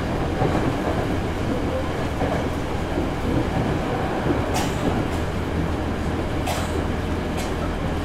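Hankyu 8000 series electric train running, heard from inside the car: a steady rumble of wheels on rail with a low hum, and a few sharp clicks in the second half.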